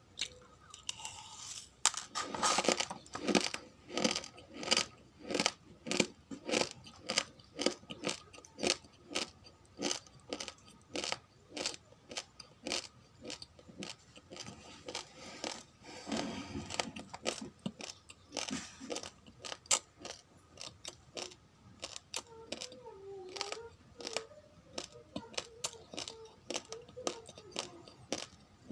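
Raw, uncooked rice grains being chewed, a steady run of sharp, close crunches about two to three a second.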